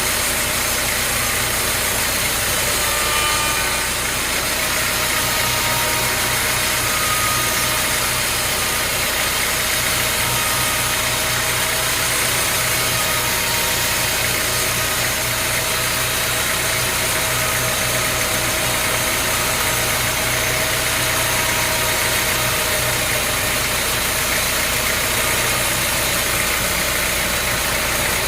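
Sawmill machinery running steadily, a constant engine-driven drone with noise and no breaks.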